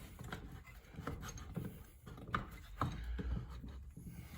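Scattered light clicks, taps and rubbing of headlight assembly parts being handled, with the spring just hooked onto the headlight bucket.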